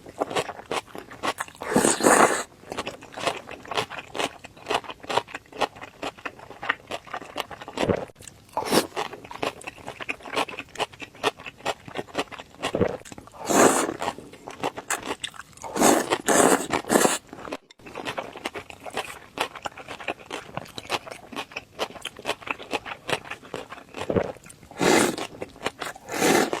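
Close-up mouth sounds of eating chewy cold beef tendon noodles: steady wet chewing and smacking clicks, with a louder burst about five times.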